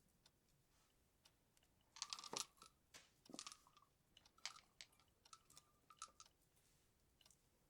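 Christmas tree baubles being handled and hung: a cluster of small clicks and clinks about two seconds in, then a few more scattered taps and short ringing clinks.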